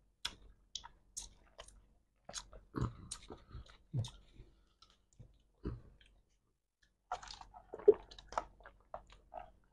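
Quiet close-up eating sounds: a burger being chewed, with scattered wet mouth clicks and lip smacks. Near the end comes a denser run of clicks as both people sip drinks through straws.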